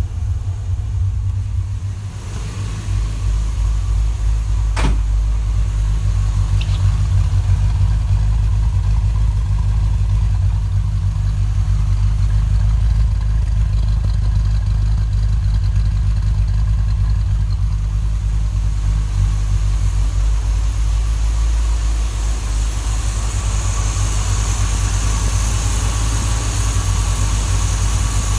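1976 Corvette's 350 V8 with a Quadrajet four-barrel carburetor idling steadily and smoothly, its idle mixture screws freshly set. A single sharp click about five seconds in.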